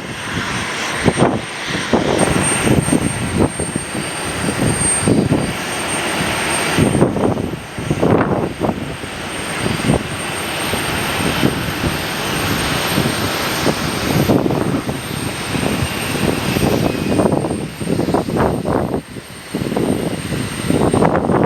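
Aircraft engines running in strong, gusty wind, with the wind buffeting the microphone in irregular surges.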